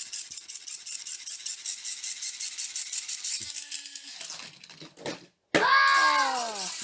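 A Power Rippers toy car spinning up with a rapid, even, high-pitched rattling whir for about four seconds before it fades. Near the end a child cries out in a loud, falling 'whoa'.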